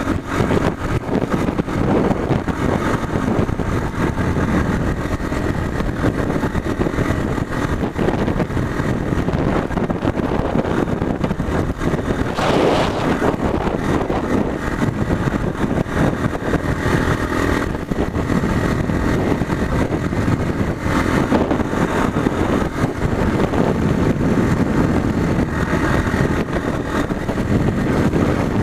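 Motorcycle engine running steadily under way, with a constant rush of riding noise.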